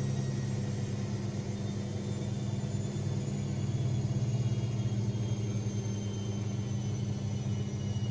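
AEG Lavamat 6610 washing machine running with a steady low motor hum and a faint high whine that slowly falls in pitch.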